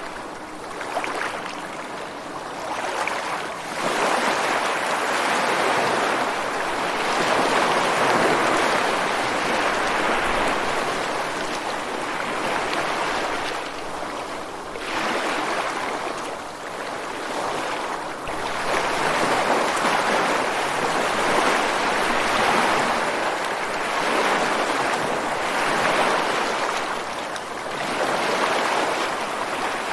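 Ocean waves breaking and washing ashore, the surf noise swelling and easing every few seconds.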